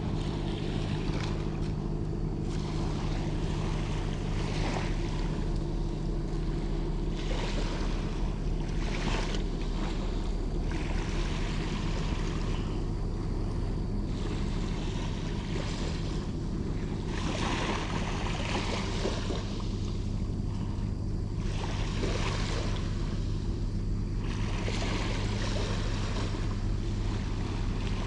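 Wind buffeting the microphone and light surf on the beach, gusting up and down every few seconds, over a steady low engine hum such as a boat's motor offshore.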